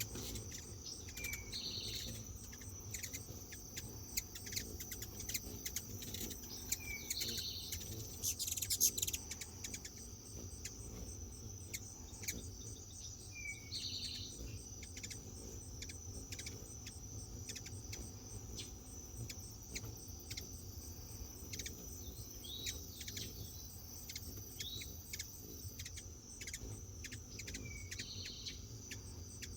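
Hummingbirds chattering: many rapid short chips and ticks, with a short call repeating every few seconds. A steady high insect trill runs underneath.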